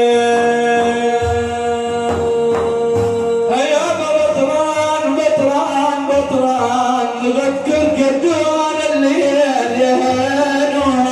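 A male voice holds one long sung note, then a group of men comes in chanting together about three and a half seconds in, with drum beats underneath: Sufi praise singing of the Prophet (manqaba).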